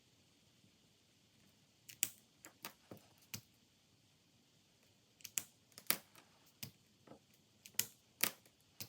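Small sharp clicks and taps from hands working with planner supplies on a desk: a handful about two seconds in, then a quicker run of them from about five seconds in to the end.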